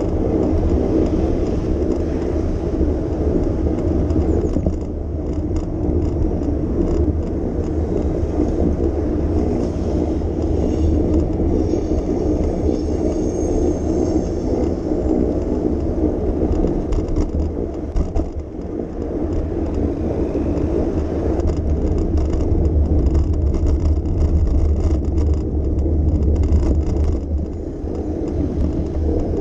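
Steady low rumble of riding a bicycle along city streets, with road traffic and wind on the microphone mixed in.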